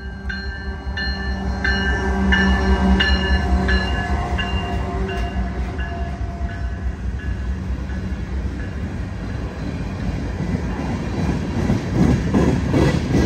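Diesel freight locomotive passing, its engine rumbling low while a bell rings about one and a half strikes a second, fading away over the first five seconds. Then the freight cars roll by with a rhythmic wheel clatter on the rails.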